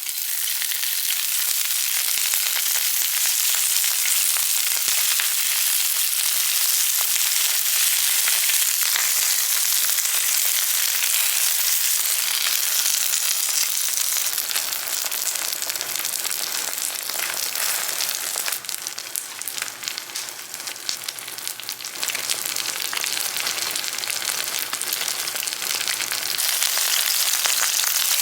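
Food sizzling in hot oil in a frying pan, a dense steady crackle that eases for a few seconds past the middle and then comes back up.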